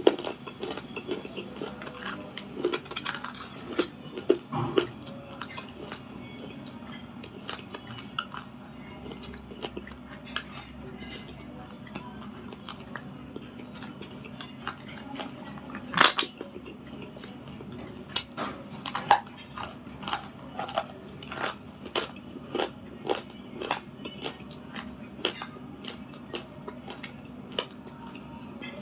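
Someone biting and chewing brittle dry clay or slate pencil, with sharp crisp crunches. The crunches come irregularly at first and are sparse for several seconds. One loud bite comes about sixteen seconds in, then steady chewing crunches roughly twice a second to the end.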